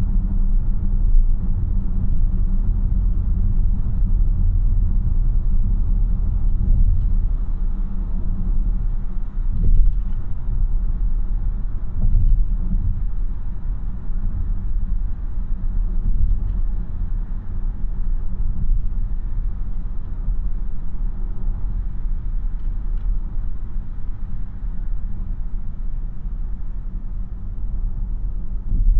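Low, steady road and tyre rumble inside the cabin of a moving 2026 Tesla Model Y AWD, an electric car with no engine note. A couple of brief thumps come through about ten and twelve seconds in.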